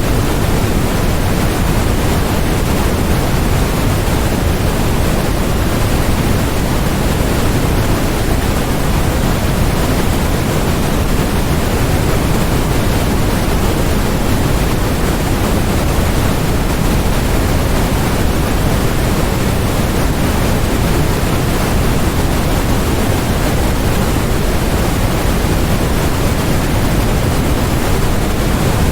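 Steady synthetic white noise: a constant, unchanging hiss spread across the whole range, with more weight in the low end than in the highs.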